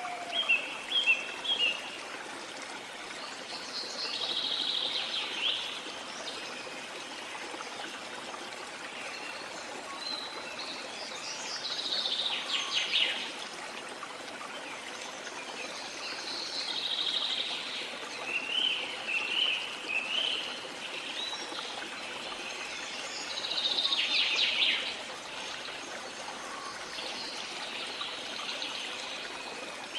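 Jungle ambience: a steady wash of falling water, with birds calling over it in short phrases that come again every few seconds.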